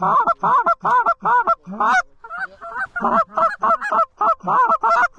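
Canada goose call blown in a rapid run of short honks and clucks, about four a second, with a brief break a little past two seconds in, calling to approaching geese.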